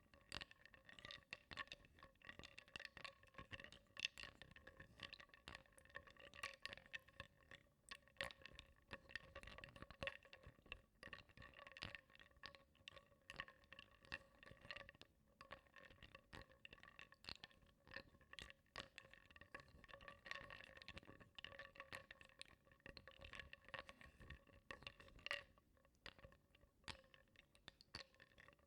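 Small wooden blocks stirred in water in a bowl, knocking and clicking against each other and the bowl in quick, irregular taps. A faint steady tone sounds underneath throughout.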